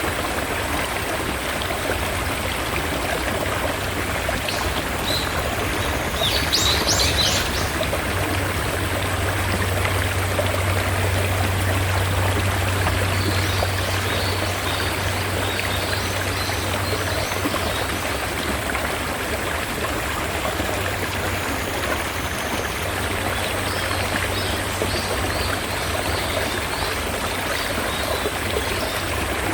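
Mountain stream water rushing steadily. A bird chirps briefly about six seconds in, and short high calls repeat faintly later on.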